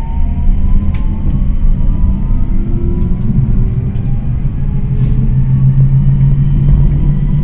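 Tram running on its rails: a steady low rumble with slowly rising motor whines and a few sharp clicks.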